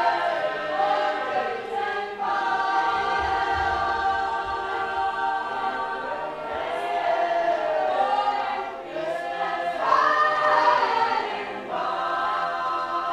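Several voices singing together in harmony, holding long notes in phrases with short breaks between them.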